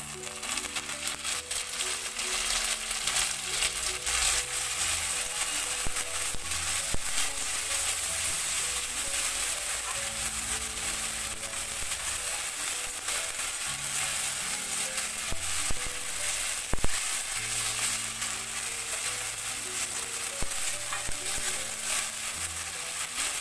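Green chilli, onion and ginger paste sizzling and crackling in hot oil in a metal wok, stirred with a wooden spatula. There is one sharp knock about two-thirds of the way through.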